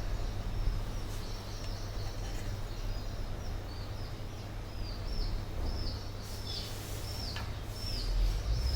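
A bird chirping over and over, short high calls about twice a second, over a steady low rumble.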